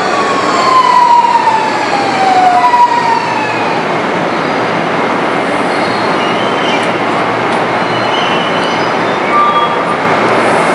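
Electric commuter train pulling slowly into the station. A whine of several tones falls in pitch over the first few seconds as it slows, then gives way to a steady rumble of wheels on rail with a few brief high squeaks.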